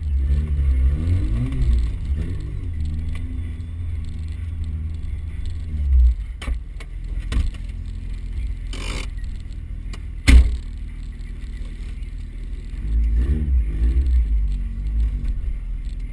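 Small 4x4's engine (a Suzuki Samurai) picked up through the bonnet as it drives a rough dirt track, its pitch rising and falling with the throttle early on and again near the end, steadier in between. Knocks and rattles from the body over bumps, the loudest a sharp thump about ten seconds in.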